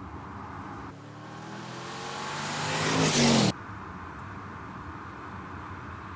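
2021 Porsche Panamera 4S E-Hybrid's 2.9-litre V6 biturbo engine accelerating: the engine note rises in pitch and grows louder, then cuts off suddenly about three and a half seconds in. A quieter steady road noise follows.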